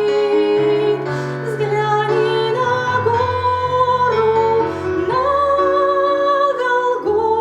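A woman singing a hymn, holding long notes with vibrato over instrumental accompaniment.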